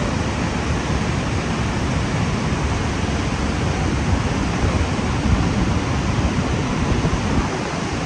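Ruacana Falls in full flood: a loud, steady rush of falling water, heaviest in the low end, with no let-up.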